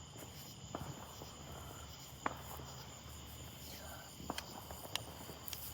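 Steady high trilling of a summer-night insect chorus, crickets among them, with a few faint sharp pops scattered through.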